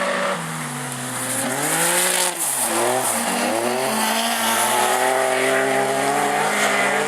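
Supercharged Volvo V6 racing engine at full revs, its pitch dropping and rising twice as it lifts off and accelerates again, then climbing and holding high about halfway through. The engine is described as sounding pretty mental.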